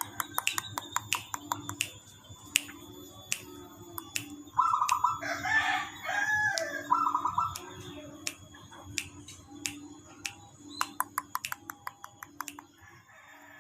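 Birds calling over many small sharp clicks: a short rolling trill about four and a half seconds in, a louder call of about a second and a half right after, then another short trill.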